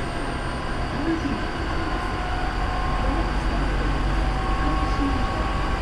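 Hankyu 3300 series electric commuter train heard from inside the car while running between stations: a steady rumble of wheels on rail with a faint even hum over it.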